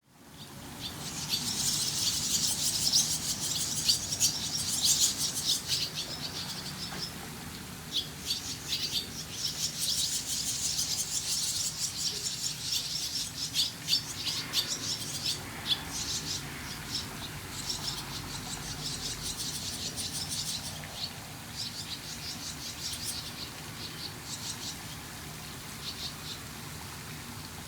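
Small birds chirping, a dense run of rapid, high-pitched chirps that is loudest in two stretches, near the start and toward the middle, then goes on steadier and softer.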